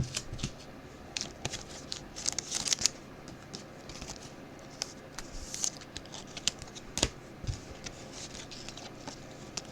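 Football trading cards being handled and slid past one another, with light clicks, swishes and crinkling of pack wrappers.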